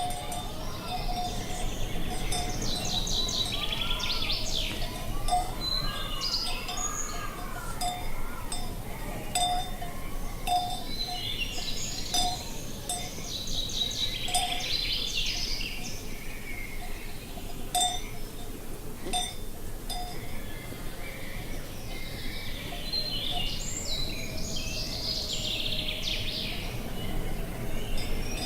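Small birds singing in repeated chirping phrases, while bells on grazing cattle clink about once a second, over a low steady outdoor hiss.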